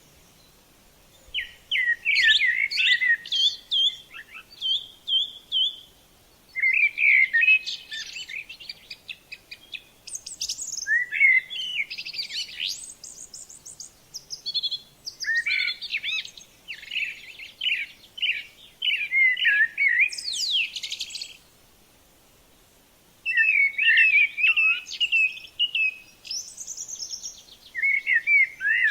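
A bird singing in long, varied warbling phrases of a few seconds each, separated by short pauses.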